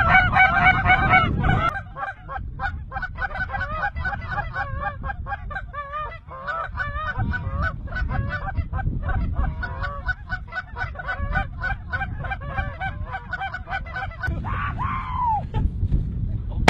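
A large flock of geese calling, a dense chorus of many overlapping high honks and yelps, loudest in the first couple of seconds, over a steady low wind rumble.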